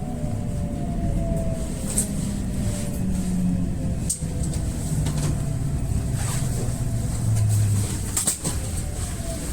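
Electric train running, its motor whine falling in pitch in several steps as it slows, with a few sharp clacks of wheels over the rails.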